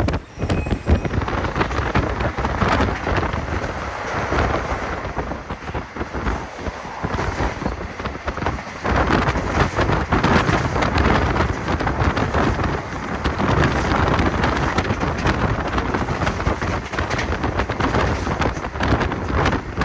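Passenger train running at speed, heard from on board: a continuous rumble and irregular clatter of the carriage with wind buffeting the microphone.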